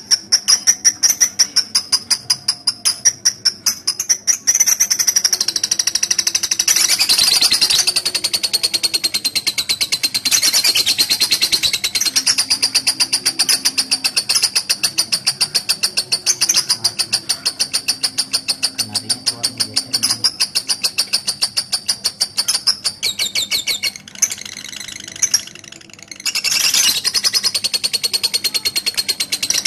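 Lovebird's long 'ngekek' call: a fast, even run of sharp, high chirps repeated many times a second. It breaks off for about two seconds near the end, then starts again. The uploader puts calling like this down to conditioning set too high, excess breeding drive, or simply the bird's character.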